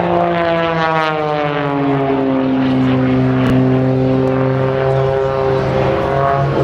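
A 315-horsepower piston-engined aerobatic propeller plane flying a display, its engine and propeller note falling in pitch over the first couple of seconds and then holding steady.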